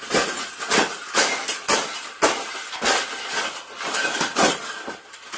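A series of sharp clattering knocks, about two a second, with a rattling clatter between them.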